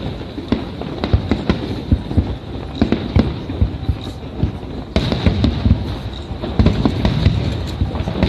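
Fireworks bursting overhead in rapid succession, many overlapping bangs and crackles, getting louder and denser about five seconds in.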